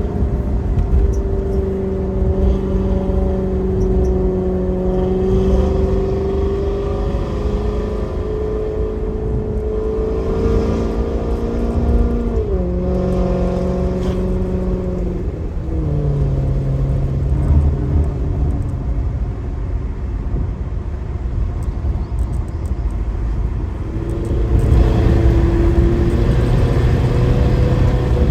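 2008 Maserati GranTurismo's 4.2-litre V8 running through a Kreissieg aftermarket exhaust while driving. The engine note holds steady, drops in pitch in two steps near the middle, and grows louder for the last few seconds.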